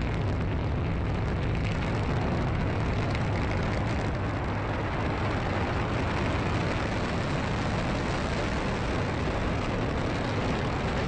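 Falcon 9 rocket's first-stage engines firing during ascent after liftoff: a steady, even roar of noise, heaviest in the low end.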